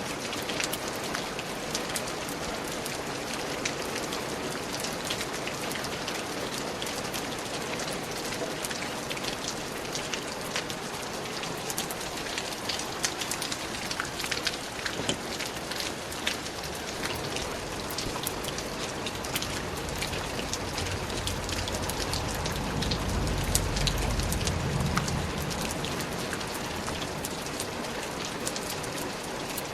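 Steady rain falling in a forest, a continuous hiss with many sharp drop ticks. About two-thirds of the way in, a low rumble swells for a few seconds and fades.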